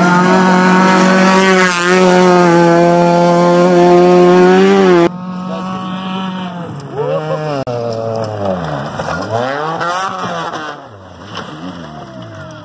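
Rally car engine running hard at high revs on a gravel stage, loud and steady for about five seconds, then cutting off abruptly. After the cut a rally car is heard quieter, its engine revving up and down several times before fading.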